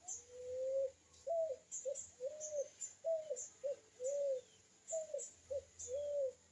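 A dove cooing: one long note rising slightly in pitch, then a run of shorter, low, arched hoots in an uneven rhythm. Faint high ticks sound throughout.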